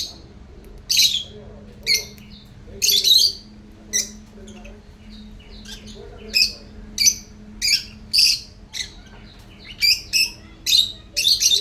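African lovebirds chirping: short, sharp, high-pitched calls, about fifteen of them, coming irregularly at roughly one or two a second.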